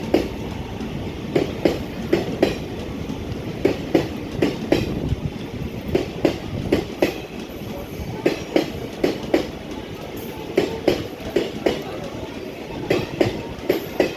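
A train's cars running past, their wheels clicking over the rail joints in quick pairs again and again over a steady rolling rumble.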